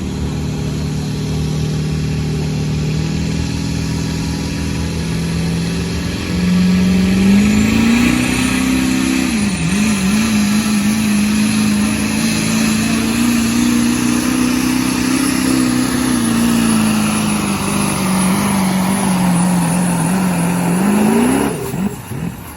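Turbo-diesel pulling truck with a 2.6-inch smoothbore turbo running at full throttle under the heavy load of a pulling sled. About six seconds in it jumps louder and climbs in pitch, with a high turbo whistle over the engine, and its pitch dips briefly once. It then holds steady under load, sagging slowly, and cuts off sharply near the end as the throttle is released.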